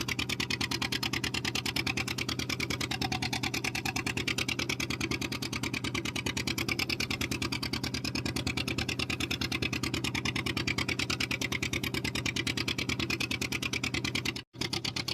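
A fishing boat's engine running steadily at sea, with a fast, even pulse. It drops out for an instant near the end.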